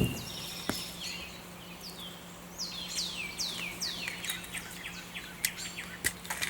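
A songbird singing a run of quick, falling whistled notes, several in a row, with a few sharp clicks of something being handled.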